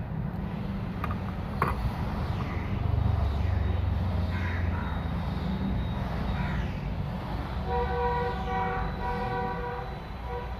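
Steady low rumble of passing road traffic, with a sharp click about a second and a half in. Near the end a vehicle horn sounds twice in quick succession.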